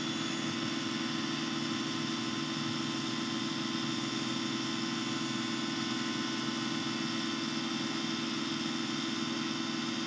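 Woodturning lathe running steadily at speed with an even motor hum and hiss, spinning a resin pen blank during the polishing stage.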